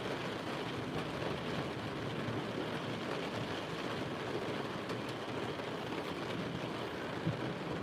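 Heavy rain falling on the roof of a vehicle, heard from inside the cabin as a steady, even hiss.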